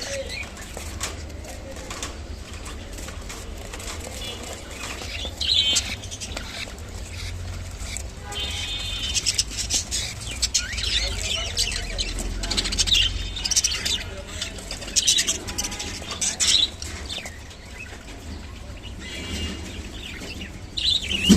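Budgerigars chirping and chattering on and off, with short clicky rustles between the calls.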